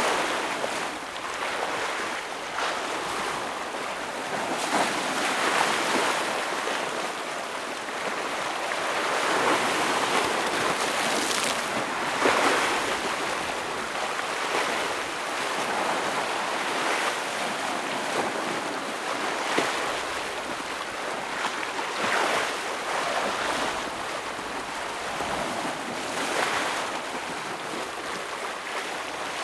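Ocean waves breaking and washing against rocks: a continuous surf noise that swells and eases every few seconds, with sharper splashes now and then.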